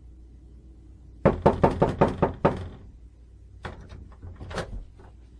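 Rapid knocking on a door: a quick run of about eight knocks, then a few fainter knocks about a second later.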